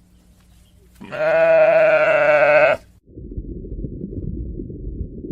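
An animal's long, wavering call lasting nearly two seconds, followed about three seconds in by a low, rough rumbling.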